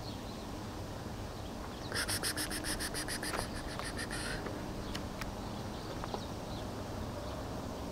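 A bird's harsh rattling chatter about two seconds in: a rapid run of dry clicks, about eight a second, lasting some two and a half seconds and slowing as it fades. A few faint clicks follow, over a steady low outdoor hum.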